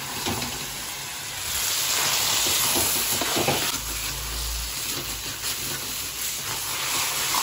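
Sliced onions frying in oil in a kadai, sizzling steadily as a spatula stirs and scrapes through them. The sizzle grows louder about a second and a half in, then eases back a little.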